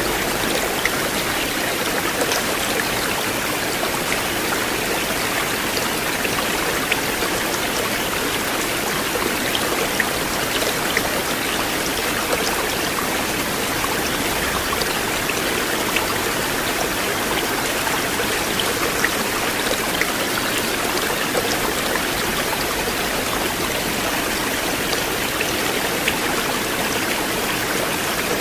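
River water flowing: a steady, even rush of water with scattered small ticks.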